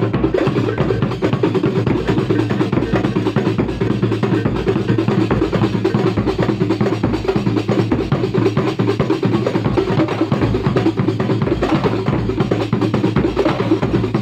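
Kuntulan ensemble percussion: hand-struck frame drums playing a dense, fast, continuous rhythm over regular deep bass-drum beats.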